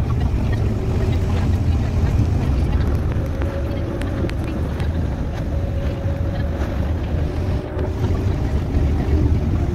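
Steady low rumble of a moving vehicle, with a faint steady whine in the middle.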